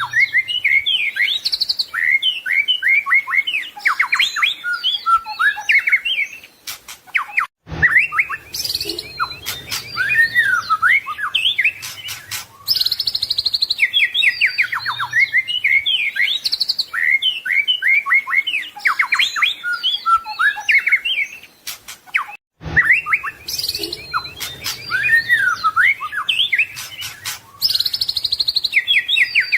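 White-rumped shama singing a varied, loud song of rapid trills, chips and whistles. The same song passage repeats about every fifteen seconds, with a brief break between repeats.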